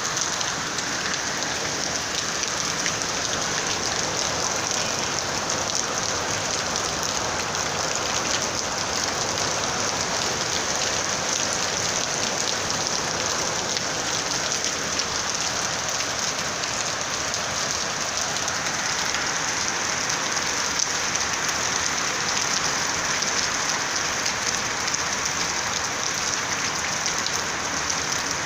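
Steady rain falling on a flat rooftop, an even, unbroken patter.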